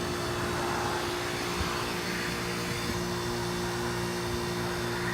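2001 Amana 3-ton heat pump running in its defrost cycle: the compressor runs with a steady hum and a constant hiss while the iced-up outdoor coil is heated to melt it off.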